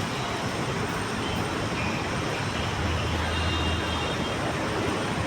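Steady background noise, a low rumble with hiss, with a brief low hum partway through.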